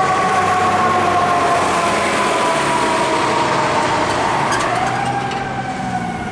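Fire truck siren wailing with a slowly falling pitch that rises briefly again about five seconds in, over the truck's engine rumble, fading as the truck moves off.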